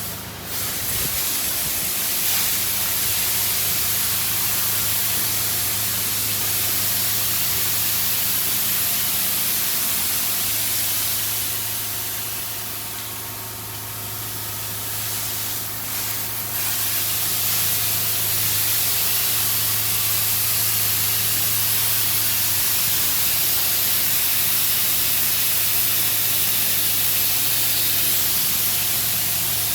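D&S IQ 2.0 touch-free car wash spraying water onto the car, a steady loud hiss of spray over a low pump hum. The spray eases off for a few seconds near the middle, then comes back at full strength.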